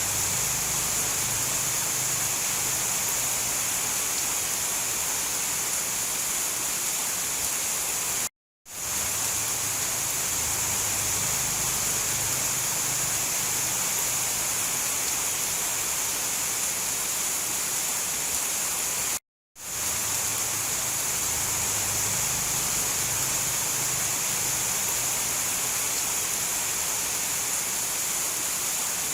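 Steady, heavy rain hiss with no thunder. It cuts out to silence for a split second twice, about a third and two-thirds of the way through, and fades back in each time.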